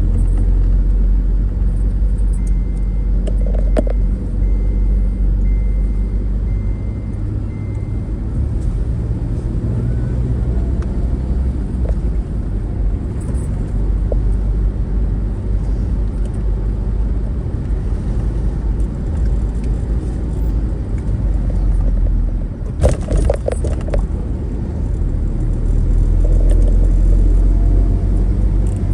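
Steady low rumble of a moving vehicle, with a brief rattle about 23 seconds in.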